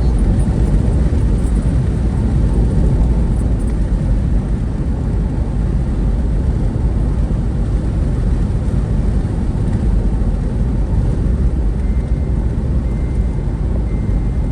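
Steady low rumble of a moving road vehicle: engine, tyre and wind noise while travelling along a road, with no changes or separate events.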